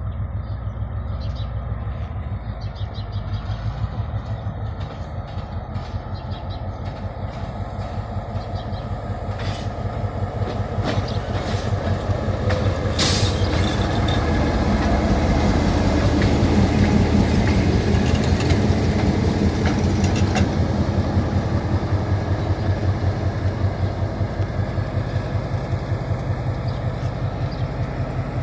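G22 diesel-electric locomotive running light along the track, its engine rumble swelling as it draws near and easing off again, with a few sharp clicks from the wheels and rails along the way.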